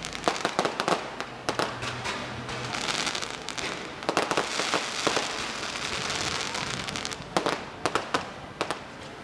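Fireworks going off in rapid, irregular bangs and crackles, with clusters of louder reports over a continuous crackle.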